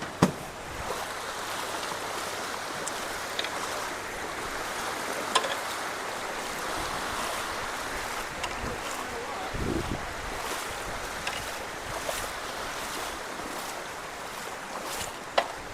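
Steady rushing of floodwater pouring through road culverts, with scattered light clicks and knocks.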